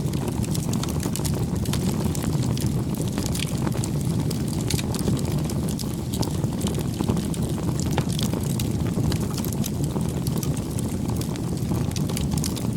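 Campfire burning, with a steady low rumble under many small, irregular crackles and pops from the burning wood.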